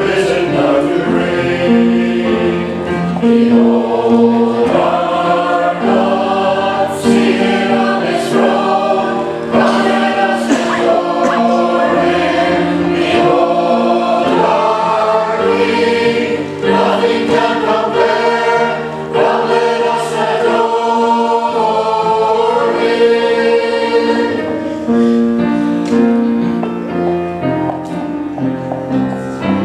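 Church choir singing the introit, a slow hymn-like piece in several voice parts with held, shifting chords.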